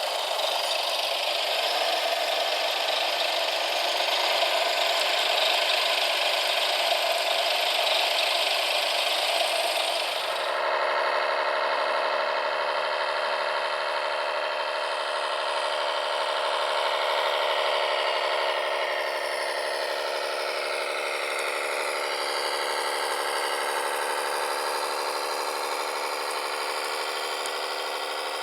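Small electric motors and gear drives of remote-control construction models running. A rough grinding whine about ten seconds in gives way to a steadier, higher whine that slides in pitch.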